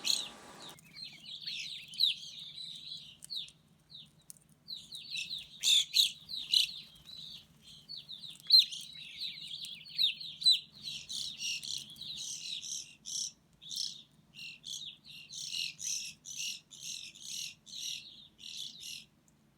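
A group of grosbeaks chirping: many short calls, quick and overlapping, with a brief lull about four seconds in and livelier calling in the second half. A faint steady low hum runs underneath.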